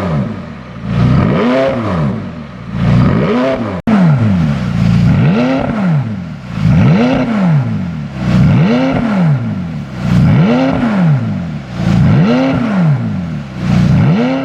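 McLaren 570S twin-turbo V8 revved again and again through a custom dual exhaust. Each rev climbs and falls back in pitch, about one every one and a half to two seconds.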